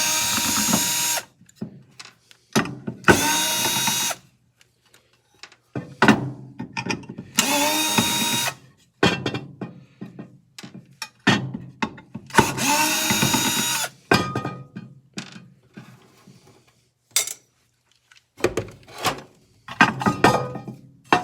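Power drill spinning up in four short runs of a second or so each, backing screws out of the saw's housing, with clicks and knocks of handled parts between the runs.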